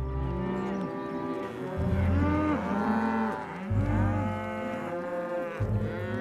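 Several cartoon cows mooing, their long calls overlapping one after another over background music.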